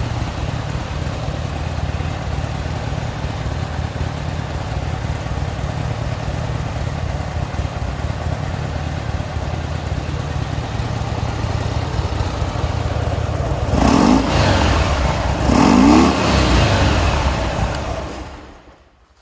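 Fuel-injected Harley-Davidson Dyna Low Rider's Twin Cam 88 V-twin idling steadily. About two-thirds of the way through it is blipped twice, rising cleanly and dropping straight back, with no bogging: a sign of good throttle response. It then winds down and stops near the end.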